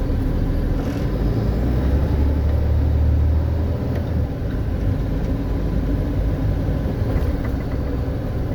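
Car driving on city streets, heard from inside the cabin: a steady low engine and road rumble that gets heavier for a couple of seconds about 1.5 s in.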